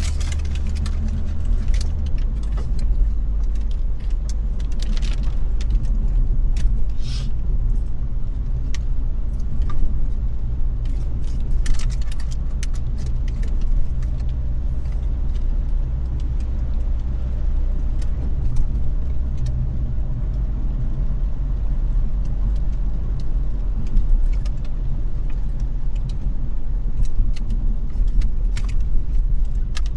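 Car driving in the rain, heard as a steady low road rumble with scattered light ticks and taps from rain striking the car.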